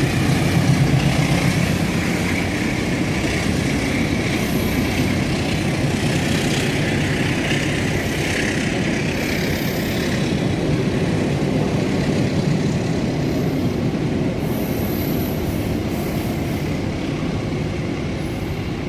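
A passenger train running past on the rails, its wheels and cars making a steady loud rumble, with a few brief high-pitched wheel squeals.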